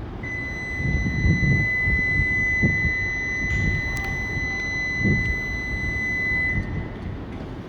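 Station platform departure buzzer sounding one steady high tone for about six and a half seconds, cutting off near the end, as the Shinkansen's departure is signalled. Low rumbling noise runs underneath.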